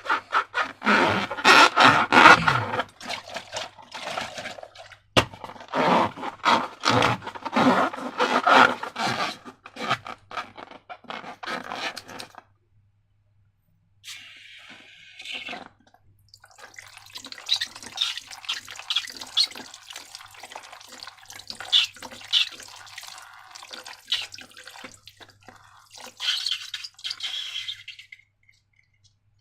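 Slime being squeezed and worked by hand, making wet, sticky squelching and crackling clicks in stretches with short pauses.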